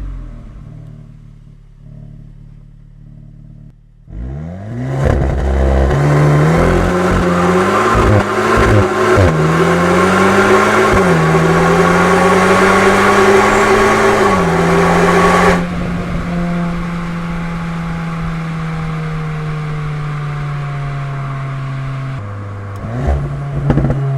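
VW Golf 8 GTI Clubsport's turbocharged 2.0-litre four-cylinder, fitted with an Akrapovič exhaust, at full-throttle acceleration from about four seconds in. The revs climb and drop back at each of about four quick gearshifts. Near the middle the throttle comes off and the engine settles to a steadier, quieter run.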